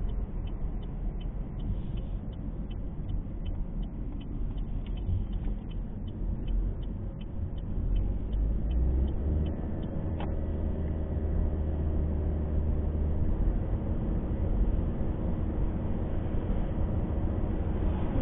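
Car driving, heard from inside the cabin: low road and engine rumble, with the turn-signal indicator ticking steadily through the first half of the clip after a left turn. About halfway in the ticking stops, and a steady engine hum comes up as the car picks up speed.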